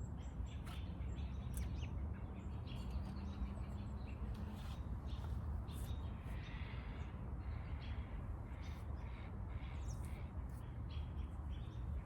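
A bird calling, possibly a crow, with scattered light clicks and clinks and a steady low rumble beneath.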